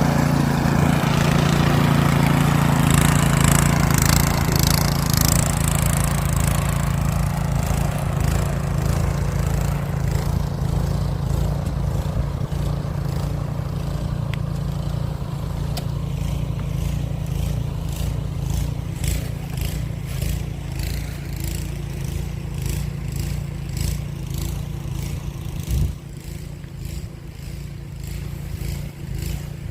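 Snowblower's small engine running steadily, slowly growing fainter as it works away. A rushing hiss in the first few seconds is likely snow being thrown.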